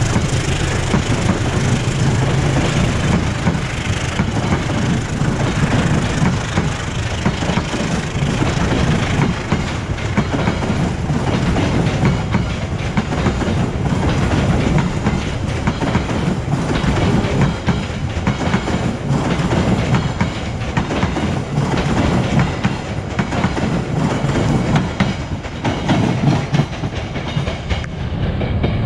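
Passenger train's coaches rolling past at close range, with a steady clickety-clack of wheels over the rail joints. The sound turns duller near the end as the last coach moves away.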